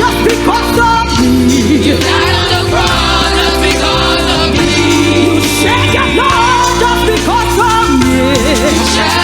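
Church choir singing a gospel song with a live band: voices over sustained keyboard chords, bass and drums.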